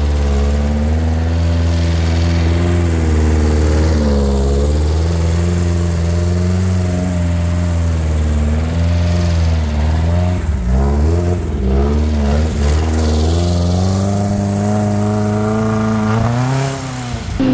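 Air-cooled VW 1600cc flat-four engine of a dune buggy under way, revving up and down as it is driven and shifted. The engine speed dips about four seconds in and again twice around the middle, then climbs near the end before dropping off.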